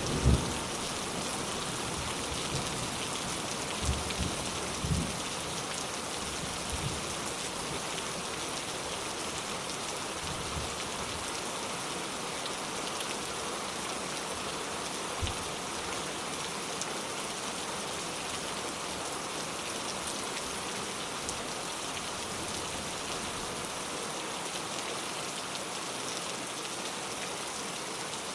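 Steady rain falling on a surface: a dense, even hiss, with a low rumble of thunder dying away at the start and a few dull low thuds in the first quarter.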